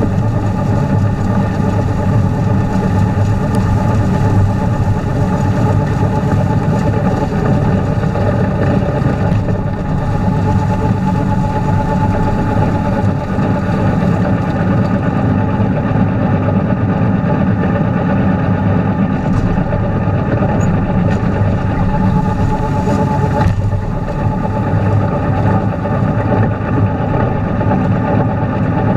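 Tractor engine running steadily, powering a three-point-hitch snowblower.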